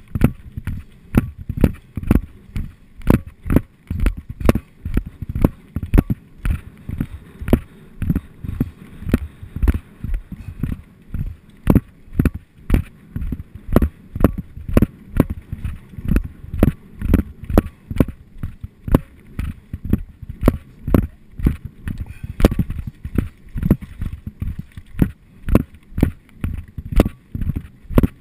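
Downhill mountain bike clattering over a rough trail: an unbroken run of sharp knocks and low thuds, a few each second, as the bike and rider take the bumps.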